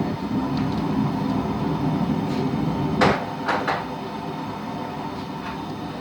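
A few sharp metal clanks of a wrench and hot steel being handled at a vise; the loudest comes about three seconds in, followed quickly by two lighter ones. A steady rumble runs underneath.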